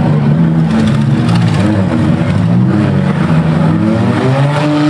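Several six- and eight-cylinder derby car engines running and revving at once, their pitches rising and falling against one another.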